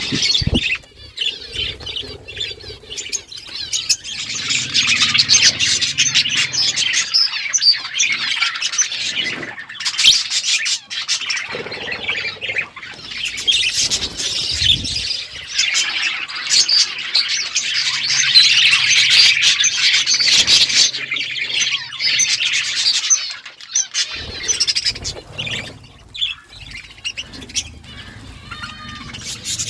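A group of budgerigars chattering continuously with rapid warbling chirps and squawks, broken now and then by brief knocks.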